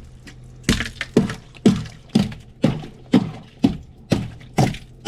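Rapid repeated blows smashing the solid ice in a chest freezer, about two hard strikes a second with each knock ringing briefly in the freezer.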